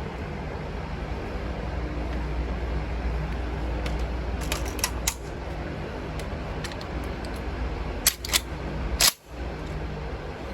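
Short clicks and clacks of 12-gauge buckshot shells being loaded into the magazine of an American Tactical Bulldog bullpup shotgun. A scattered cluster of clicks comes about four to five seconds in, then three sharper clicks around eight to nine seconds in, the last the loudest. A steady low rumble runs underneath.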